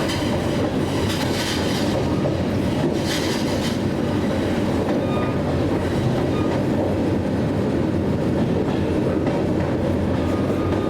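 Train running on the rails: a steady rolling rumble with the clickety-clack of the wheels over rail joints.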